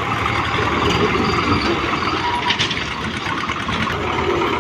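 Heavy diesel engine running steadily, with a short clatter a little past halfway.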